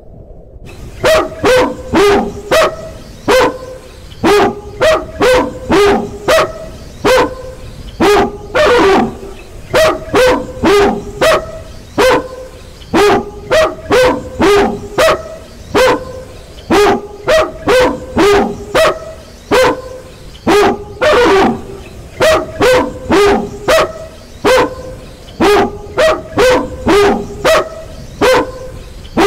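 A dog barking over and over: short, sharp barks at about two a second in quick runs with brief gaps, and two longer barks, about a third and two-thirds of the way through.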